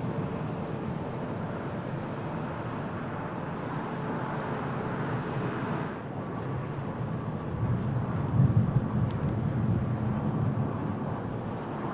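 Jet airliner engine noise on approach and landing: a steady rumble. About six seconds in it cuts to another airliner, whose rumble grows louder around eight to nine seconds.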